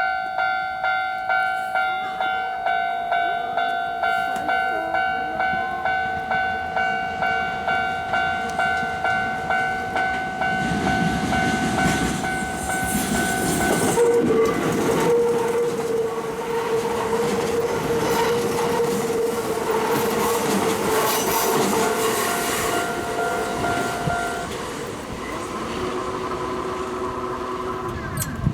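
Japanese level-crossing alarm ringing about twice a second, then a Kintetsu limited express train passes with wheels clicking over the rail joints. The crossing alarm stops near the end as the train goes by.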